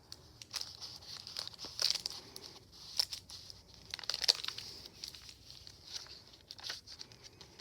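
Paper pages, pockets and tags of a handmade journal rustling and crinkling as they are handled and turned, with irregular soft clicks.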